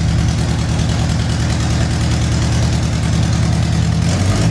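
Honda CRX engine idling steadily and loudly, its note shifting slightly near the end.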